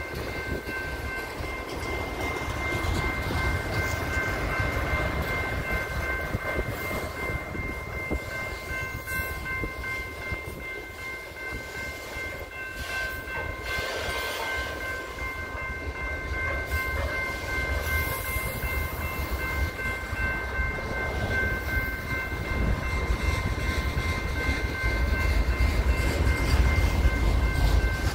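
Freight train of autorack cars rolling past at a grade crossing: a steady low rumble of steel wheels on rail, growing louder near the end. A grade-crossing warning bell rings throughout.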